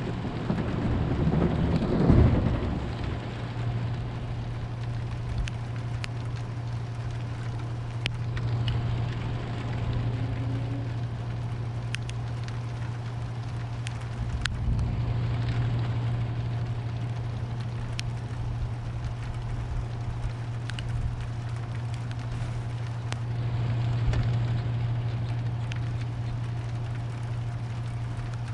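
Thunderstorm: a rumble of thunder swelling and fading in the first few seconds, then steady rain with scattered drops tapping and a few gentle swells. A steady low hum runs underneath.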